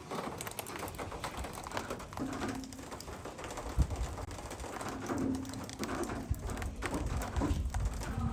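A bird's low calls, three short held notes, over scattered knocks and rustling.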